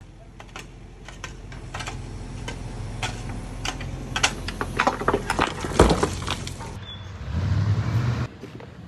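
Rocks clattering and knocking against one another as they are loaded, in irregular sharp clacks, over the steady running of a machine's engine. The engine grows louder about seven seconds in.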